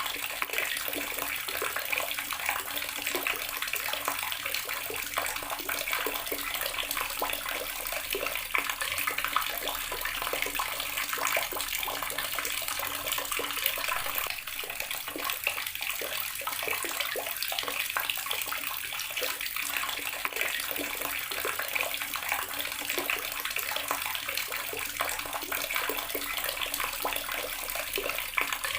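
Water running steadily from a garden tap and splashing continuously, with many small splashes.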